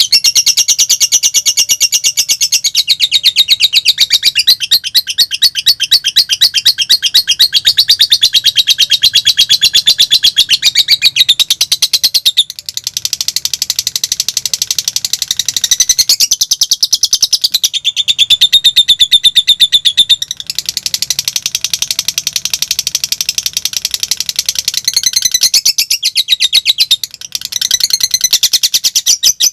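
Lovebird singing a long, rapid chattering song of fast high-pitched chirps, many to the second, in the 'konslet' (short-circuit) style: a near-unbroken stream with only a few short pauses.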